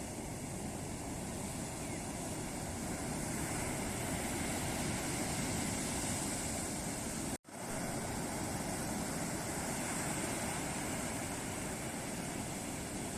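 Ocean waves breaking and washing on a beach, a steady rushing surf. The sound cuts out completely for a split second about seven seconds in.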